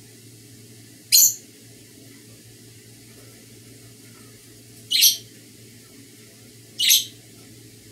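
Pet bird giving three short, loud, high-pitched chirps, spaced a few seconds apart, over a low steady hum.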